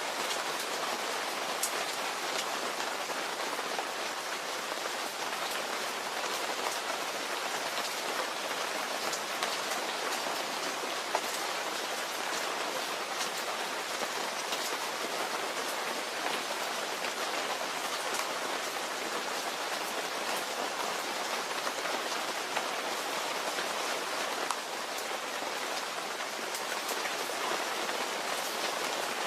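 Steady rain falling: an even hiss with many scattered sharp drop ticks, and no thunder.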